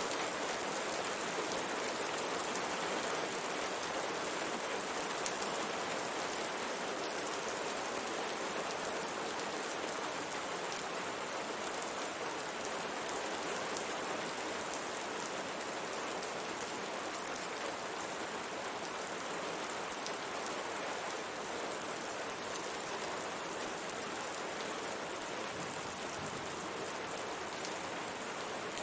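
Steady rain pattering on a window pane: an even hiss of rain with scattered sharper taps of single drops.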